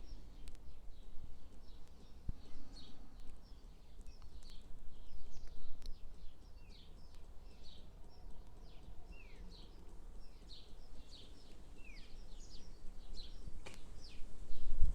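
Small birds chirping: many short, quick downward chirps, one after another, over a steady low background rumble.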